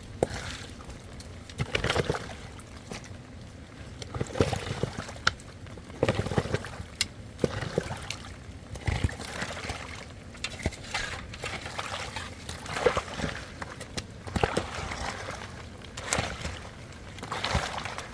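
Water sloshing and pouring in irregular bursts, with a few sharp knocks in between.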